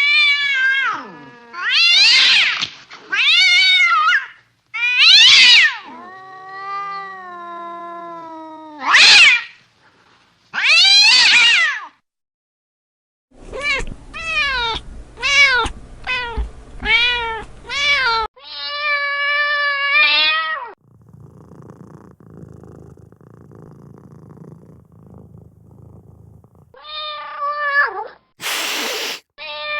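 Domestic cats meowing and yowling: a string of separate drawn-out calls that rise and fall in pitch, then a quick run of short meows and one long held meow. About two-thirds of the way through comes a quiet low rumbling stretch of several seconds, followed by more meows and a short harsh noisy burst near the end.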